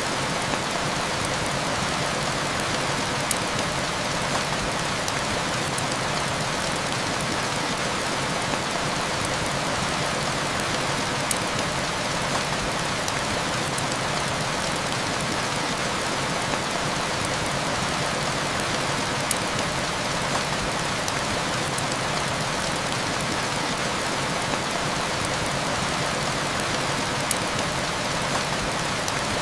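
Heavy rain falling steadily, with a few sharp pops from a crackling wood fire about every eight seconds.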